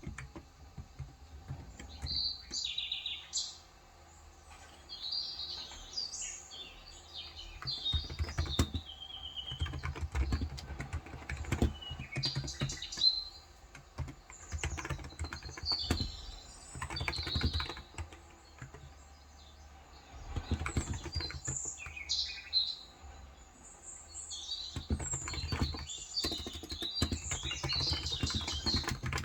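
Typing in bursts of rapid key clicks on a Cox Endeavor electro-capacitive (Topre-style) 35 g tenkeyless keyboard, with pauses between bursts. Birds chirp repeatedly, high-pitched, over and between the typing.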